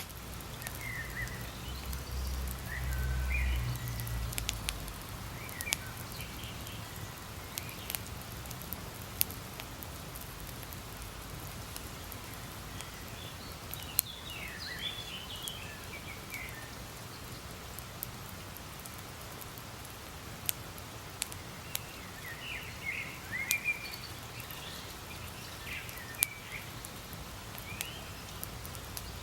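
Campfire crackling, with scattered sharp pops and snaps of burning wood. Small birds chirp in short bursts now and then, and a low rumble swells briefly a couple of seconds in.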